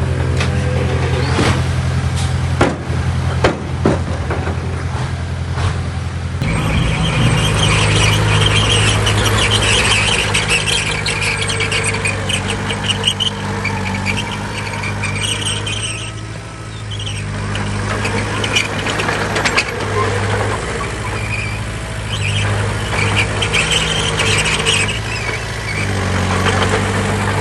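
Heavy diesel earthmoving machinery running under load, with several sharp metal knocks in the first few seconds. About six seconds in the engine sound changes abruptly, and from then on a high metallic squealing comes and goes over the engine.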